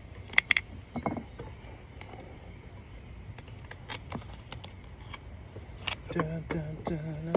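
Scattered light clicks and knocks of things being handled, then a man humming a wavering tune from about six seconds in.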